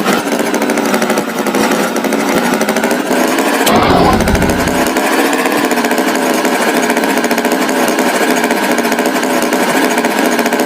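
A small motor running with a fast, steady mechanical rattle. About four seconds in there is a sharp click and a low thump lasting about a second.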